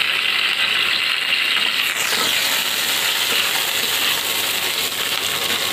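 Cauliflower florets sizzling as they fry in hot oil in a kadai. A metal spatula stirs them, and from about two seconds in the sizzle grows brighter and harsher.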